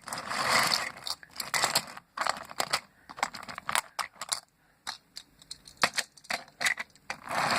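Toy train trucks being shunted by hand along a toy track: an irregular string of clicks, clacks and short rattles, with louder handling noise near the start and end.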